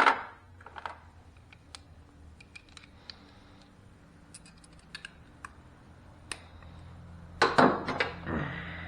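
Light clicks and clinks of hand tools, sockets and a ratchet being handled and tried on a bolt, with a sharp clank at the start and a louder clatter of metal tools about seven and a half seconds in.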